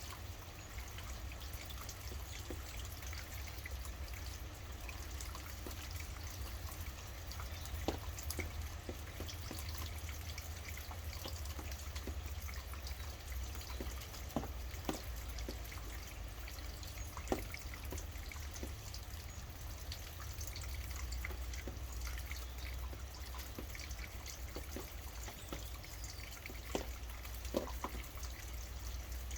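Steady rain falling, with a low rumble beneath it and a few heavier single drops landing sharply about every few seconds.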